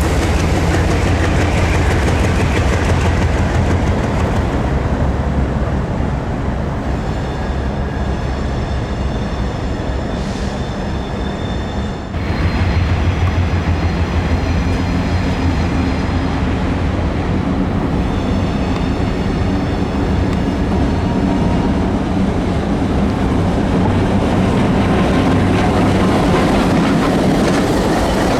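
ALCO and MLW diesel-electric locomotives with ALCO 251 engines running during switching moves: a steady, loud engine rumble with wheels clicking over rail joints. A thin high whine comes and goes twice.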